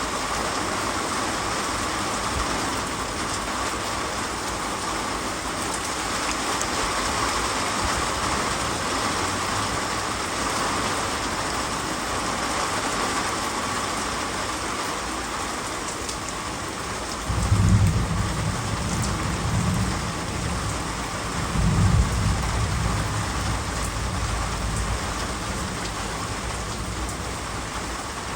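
Heavy rain falling steadily in a thunderstorm. About two-thirds of the way through, two low rolls of thunder come a few seconds apart.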